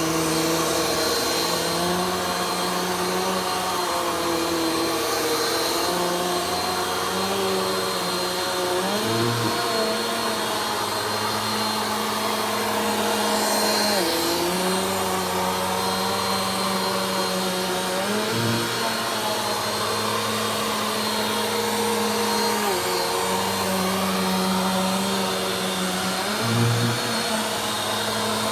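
Vacuum cleaner running steadily during slow vacuuming. Its motor hum dips briefly in pitch and recovers every few seconds.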